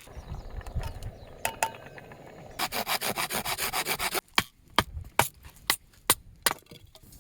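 Wood being worked by hand: a quick run of rasping strokes, about ten a second, followed by a series of sharp, separate knocks.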